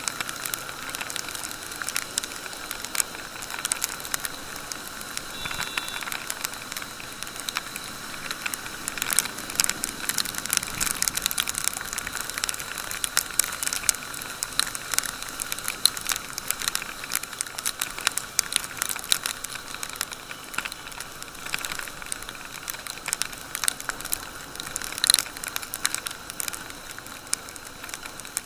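Raindrops striking the action camera's housing on a motorcycle ride in heavy rain, a dense, irregular clicking with one sharper hit about 25 seconds in, over a steady faint whine.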